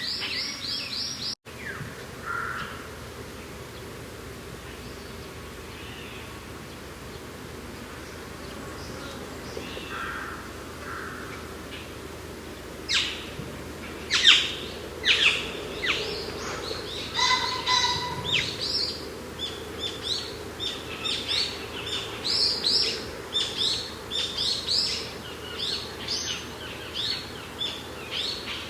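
Birds chirping and singing in quick high notes over a steady background of mountain wind. The sound drops out for an instant about a second and a half in, the birdsong is sparse for a while, then turns busy again from about halfway.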